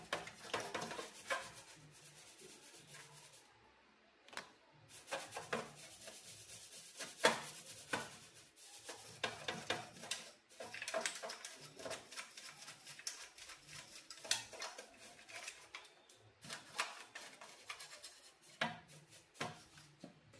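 Hands-on repair work on an old TV: irregular rubbing and scraping with many small clicks and taps of parts and tools.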